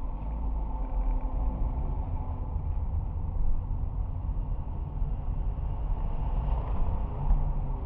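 Car driving, a steady low rumble of engine and road noise with no impacts.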